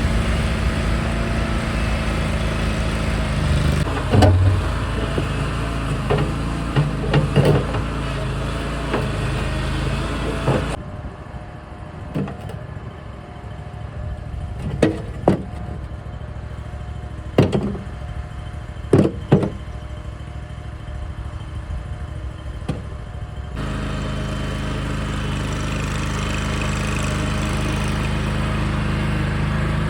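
Toro Dingo compact utility loader running steadily under work, with sharp knocks and clunks as its bucket breaks out and moves chunks of concrete slab. The engine sound drops quieter for about twelve seconds in the middle, where several separate sharp knocks stand out, then comes back at full level.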